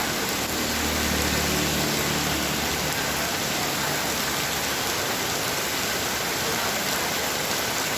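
Heavy rain falling steadily as a dense, even hiss, with a faint low rumble underneath in the first three seconds or so.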